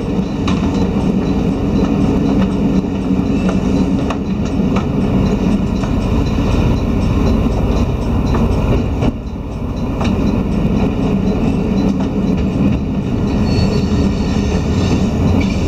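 Diesel railcar running along the track, heard from inside the passenger cabin: a steady rumble of engine and wheels, with occasional clicks of the wheels over rail joints.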